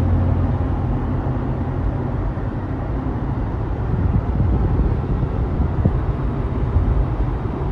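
Steady road and engine noise inside a four-wheel-drive SUV cruising at highway speed: a constant low rumble with tyre and wind hiss.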